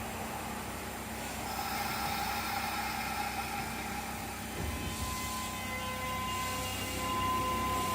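Electric train running: a steady hum with level, high whining tones, one of which comes in about a second and a half in and a stronger one about five seconds in.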